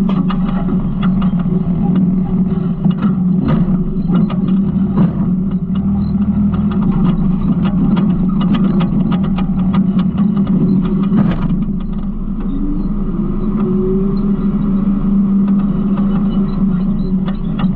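Garbage truck engine running steadily, with frequent knocks and rattles over it for the first twelve seconds or so, then a smoother, slightly quieter stretch with a brief rising whine.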